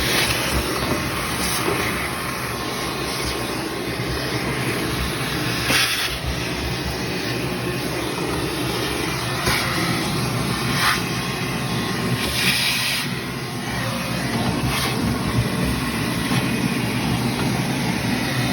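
Shop vac running steadily as its nozzle sucks lint out of the inside of a dryer, with a few brief louder hisses as it picks up clumps.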